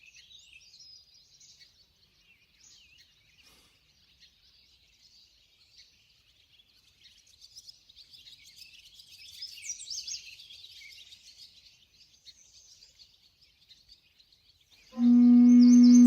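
Faint small birds chirping and singing, busiest about ten seconds in. Near the end a loud, steady low musical tone with ringing overtones starts suddenly and covers the birds.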